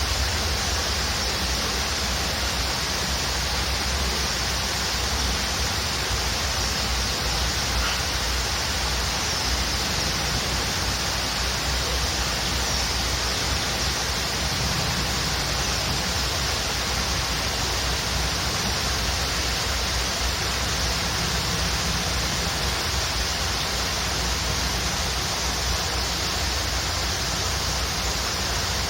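Waterfall rushing in a steady, even roar of falling water, with a few faint high bird chirps now and then.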